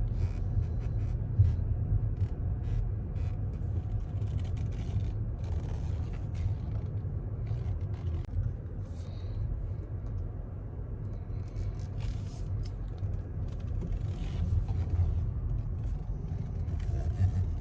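Low, steady rumble of a plug-in hybrid rolling slowly in electric-only mode, with tyre and road noise and no engine running, heard from inside the car. A few light clicks and knocks sound over it.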